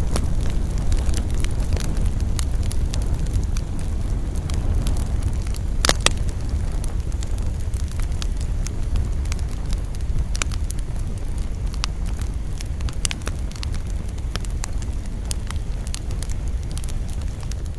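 Wood campfire burning: a steady low rumble of flames with frequent irregular crackles and pops of burning wood. The loudest pop comes about six seconds in.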